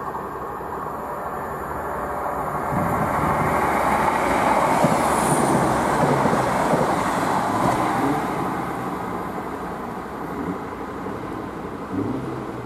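A Class 170 Turbostar diesel multiple unit passes through at speed. Its engine and wheel noise build to a peak a few seconds in, with a brief high squeal at the loudest point, then fade away. Near the end a diesel unit's engine is heard approaching.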